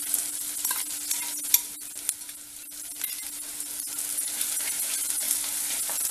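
Chopped onions and ginger garlic paste sizzling in hot sesame oil in a clay kadai, stirred with a wooden spatula that scrapes and clicks against the pot.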